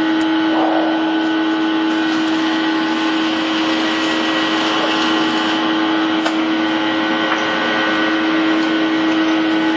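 Steady machine hum of an indoor shooting range's ventilation, a constant mid-pitched drone over a rushing noise. No gunshots.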